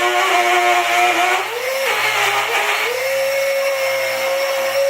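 Kitchen blender running at full speed, blending corn cake batter; the motor's whine climbs in pitch about two seconds in and then holds steady.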